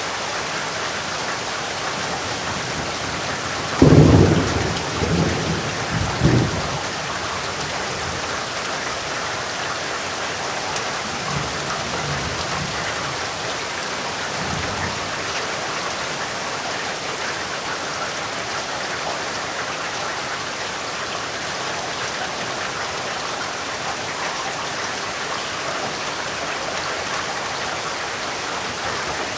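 Steady rain, with a sudden clap of thunder about four seconds in that rumbles away over the next few seconds, then fainter rolls of thunder a few seconds later.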